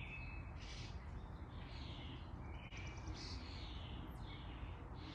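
Birds calling and chirping in a series of short, downward-sweeping calls, about one or two a second, over a low steady background rumble.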